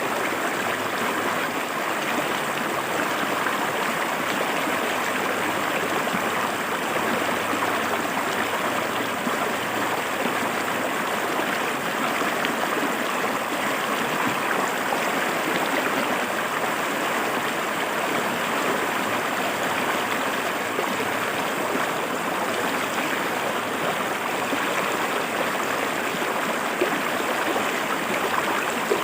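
River water flowing and splashing over rocks, a steady rushing gurgle that keeps an even level throughout.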